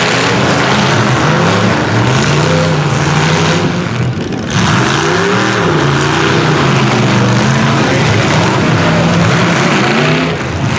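Several demolition derby truck, van and SUV engines revving up and down together, their pitches rising and falling against one another, loud throughout with a brief lull about four seconds in.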